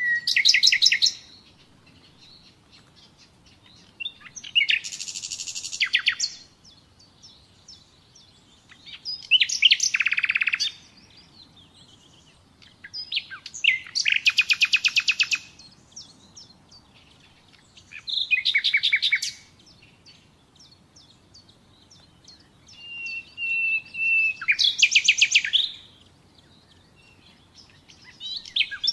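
Common nightingale singing: phrases of a second or two made of rapid repeated notes, some opening with a long whistled note, coming about every four or five seconds with short pauses between.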